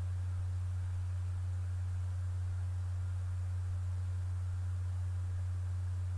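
A steady low electrical hum, one pure tone that does not change, over faint hiss: mains hum on the recording.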